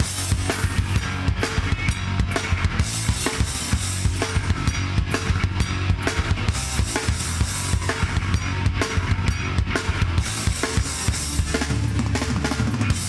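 Live heavy band playing an instrumental passage between vocal lines: fast, dense drum-kit hits over a thick, steady low end.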